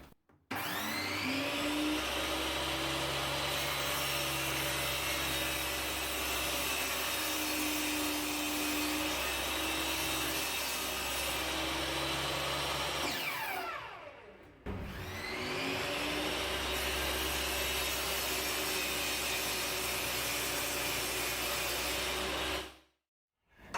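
Table saw motor spinning up with a rising whine, running steadily as it cuts through melamine-faced chipboard, then winding down with a falling whine about fourteen seconds in before starting up again.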